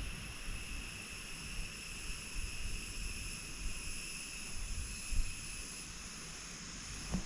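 Chorus of insects trilling steadily at several high pitches at once, with a low rumble on the microphone underneath; the highest trill fades out near the end.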